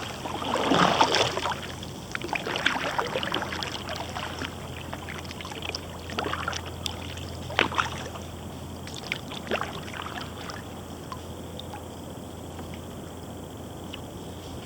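Kayak paddle swishing and splashing through the water in the first few seconds, then scattered drips and small knocks, quieter toward the end.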